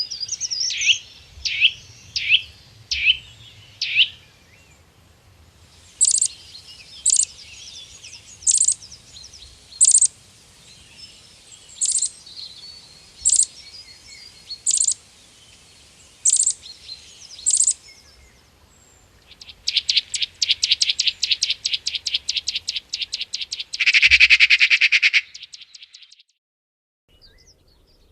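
Bird calls in three different patterns. First comes a run of short falling chirps. Next come sharp high notes spaced a second or so apart. Last is a fast high trill that ends in a louder, harsher call.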